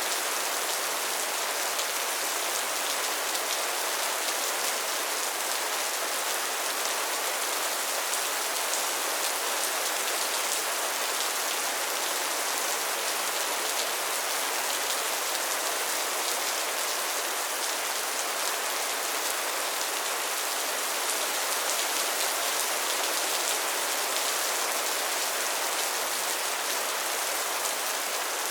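Steady rain falling: an even, bright hiss of many drops with little low rumble, unchanging throughout.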